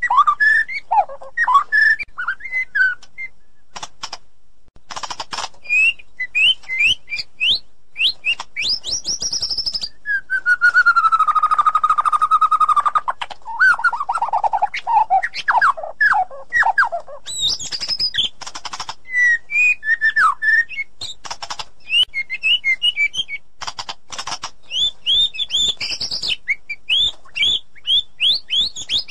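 White-rumped shama singing a varied, loud song of clear whistles, quick chirps and sharp clicks. About ten seconds in, a long note slides down and holds steady for a few seconds before a run of falling whistles.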